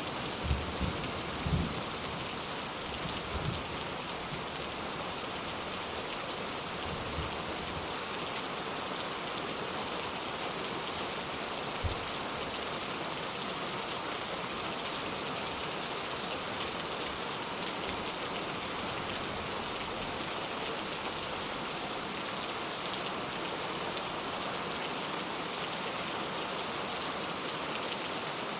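Steady rain falling in a dense, even patter, with a few low thumps in the first few seconds and one more about twelve seconds in.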